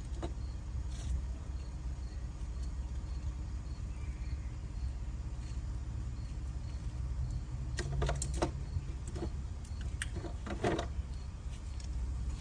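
A steady low mechanical hum from a running machine, with a few clicks and knocks of tools or parts being handled about two-thirds of the way in and again near the end.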